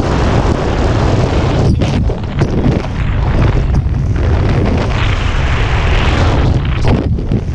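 Strong wind buffeting the microphone: a loud, continuous rumbling rush, heaviest at the low end, with small dips and surges throughout.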